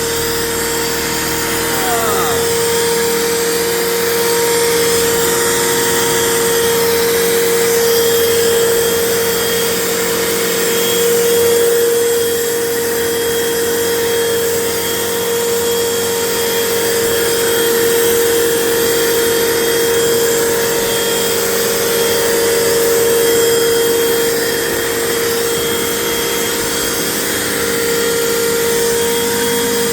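Vacuum cleaner running steadily with the hose attachment in use, a constant high whine over a wide rushing hiss, with small rises and dips in level as the nozzle works over carpeted stairs.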